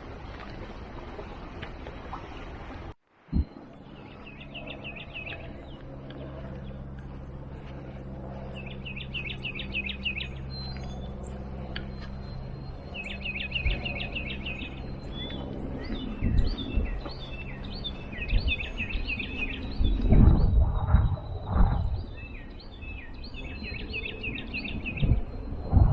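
Songbirds singing short phrases of rapid high notes, repeated every few seconds, over outdoor background noise. A low steady hum runs through the middle, and several low thumps come in the second half.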